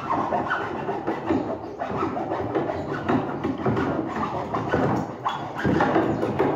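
Hand saw cutting through a wooden board, in repeated rough back-and-forth strokes.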